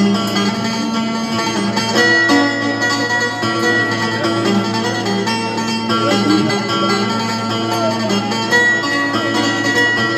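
Live instrumental music played on plucked string instruments: a continuous melodic passage of changing notes over a steady low bass.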